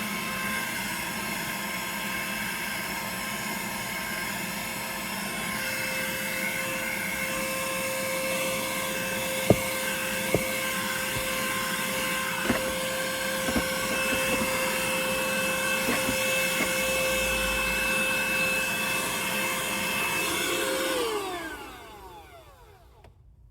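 Vacuum cleaner running steadily, with a few sharp clicks in the middle. About 21 seconds in it is switched off and its whine falls away as the motor winds down.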